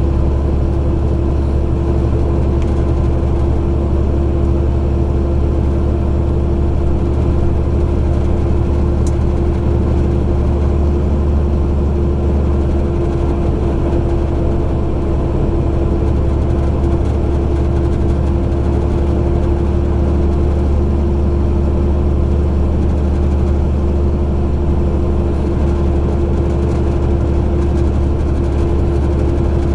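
Semi truck's diesel engine running steadily with road noise, heard from inside the cab.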